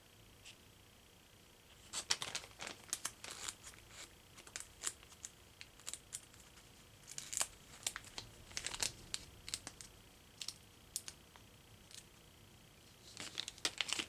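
Plastic packaging crinkling and rustling in irregular crackles as small parts are unwrapped, starting about two seconds in and getting busier near the end.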